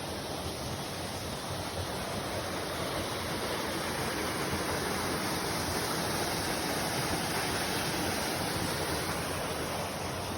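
Waterfall, its falling water rushing in a steady, even roar of noise.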